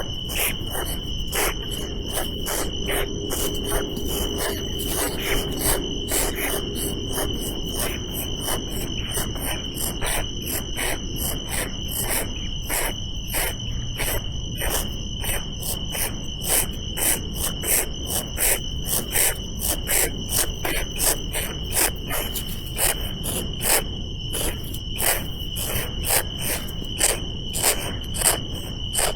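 Insects trilling: one unbroken high tone, with many short clicks a few times a second.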